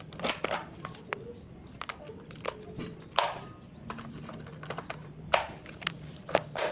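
Clicks and snaps from handling a spring-powered airsoft gun: many small irregular clicks, with a few louder sharp snaps about three seconds in, just after five seconds and near the end.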